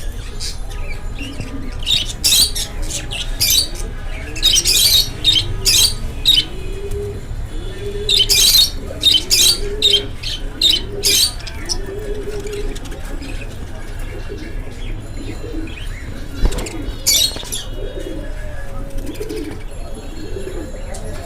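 Budgerigars chirping in clusters of sharp, high calls, over a run of low, repeated cooing calls that keeps going between the bursts.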